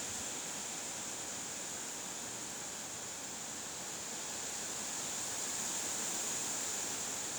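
A steady, unchanging hiss, strongest in a high band, with no distinct events.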